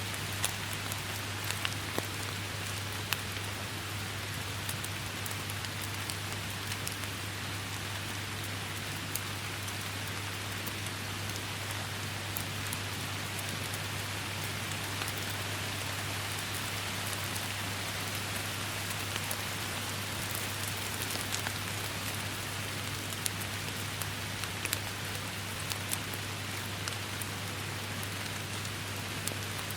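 Steady rain falling, a dense even hiss with many sharp individual drop ticks on top, over a steady low hum.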